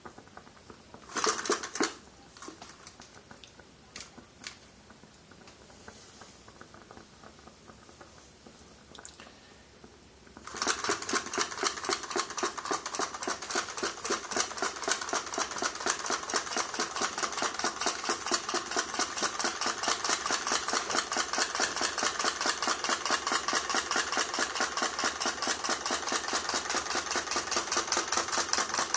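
Small model Stirling engine running with a fast, even mechanical clatter that starts abruptly about ten seconds in, after a few separate knocks and taps.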